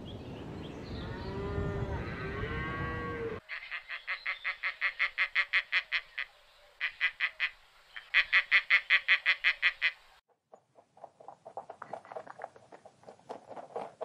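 Cattle mooing with low, drawn-out calls, then a bird's rapid, evenly repeated calls, about five a second, in two long runs with a short break. Softer, irregular calls follow near the end.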